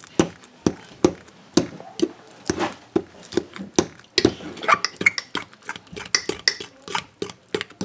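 Utensil mashing banana into cake batter in a mug: repeated irregular clinks and taps against the mug, several a second, with scraping between them.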